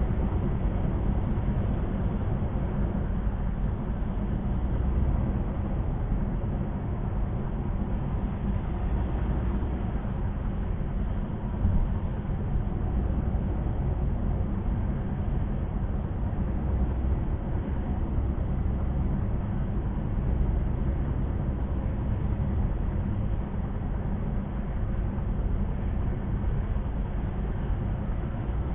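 Steady low rumble of tyre and engine noise inside a car's cabin while driving at highway speed, with one brief bump about twelve seconds in.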